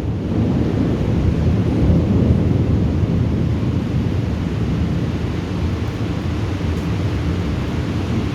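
Thunder rolling: a deep rumble that swells about two seconds in and slowly eases off.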